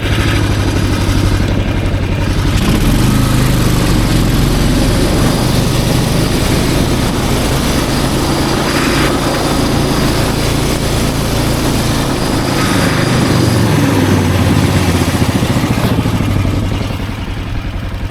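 Snowmobile engine running under way, its pitch shifting as the throttle changes. It eases off and quietens near the end.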